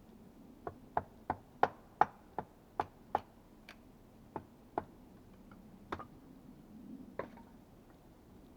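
Light, sharp knocks of a tool striking wood: a quick run of about three a second, then a few scattered strikes.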